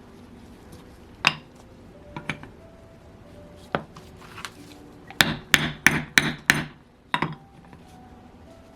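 Hammer taps on a Saito FA-100T glow engine, knocking at the crankshaft to drive it out of the crankcase. There are a few single knocks, then a quick run of five, then one more.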